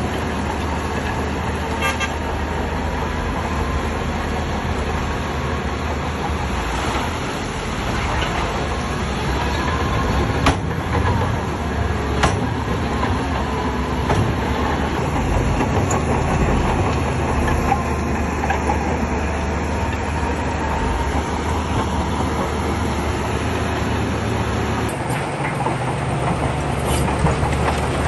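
Heavy diesel engine of a Shantui bulldozer running steadily under load, with a few sharp metallic knocks.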